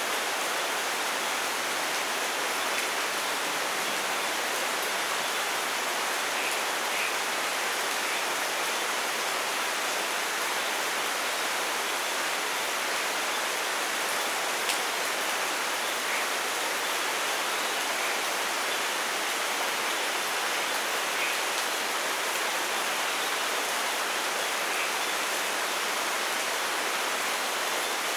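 Steady rainfall, an even hiss of rain, with a few faint short chirps now and then above it.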